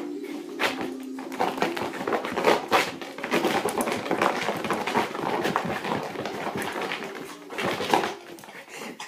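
A dog scrabbling about as it chases, a busy run of quick, irregular clicks and scuffs that thins out near the end.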